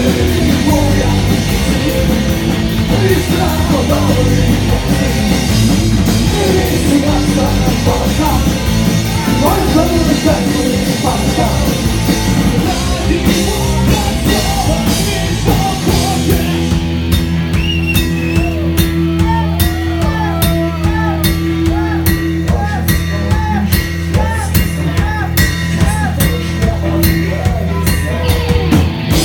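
Punk rock band music: a full drum kit driving the beat under electric guitars and bass, with some singing. About halfway through, the arrangement changes to long held low notes under steady, evenly spaced drum hits.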